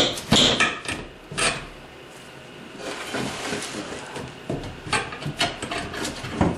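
Old wooden shelf boards knocking and scraping as they are worked loose by hand: a few sharp knocks in the first second or so, then rough wood-on-wood scraping and scattered clicks.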